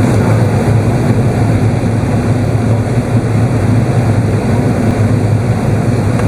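Steady, loud cabin roar inside an Airbus A380's upper deck: engine and airflow noise, even and low, with no changes.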